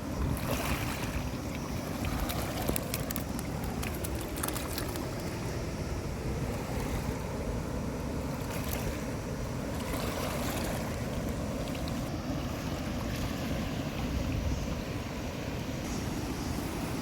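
Steady rushing of flowing stream water, with wind buffeting the microphone.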